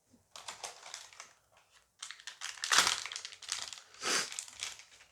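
A Dice Masters booster pack wrapper crinkling as it is handled and torn open, in a run of irregular rustling bursts that are loudest around the middle.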